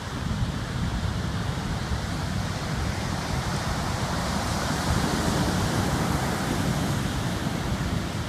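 Typhoon wind buffeting the microphone with a low rumble, over heavy surf breaking on the beach; the surf noise swells about halfway through.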